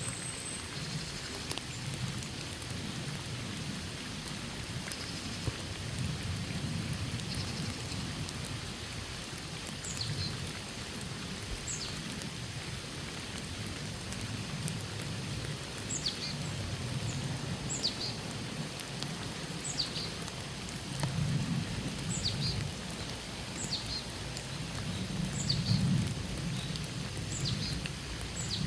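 Steady rainfall, with a low rumble swelling and fading every few seconds and a short high chirp repeating every second or two.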